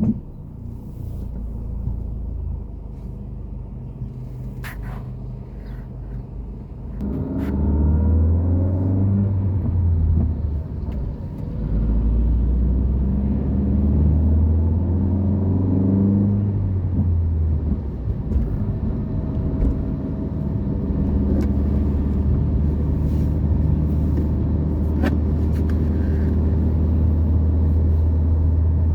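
Motor vehicle engine running with a low rumble; about seven seconds in it grows louder and rises in pitch as it accelerates, twice, then settles into a steady drone.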